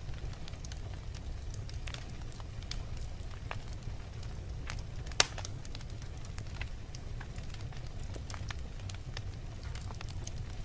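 Wood fire burning in a fireplace: a steady low rumble with scattered crackles and snaps, one sharp pop louder than the rest about halfway through.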